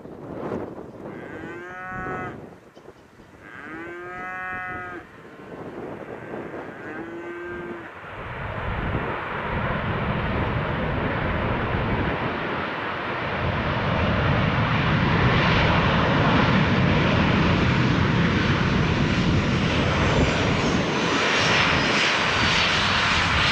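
Cattle mooing three times, long calls, then from about eight seconds in the noise of the US Navy C-40 Clipper's twin jet engines, a Boeing 737 airliner, swelling as it comes in to land and staying loud.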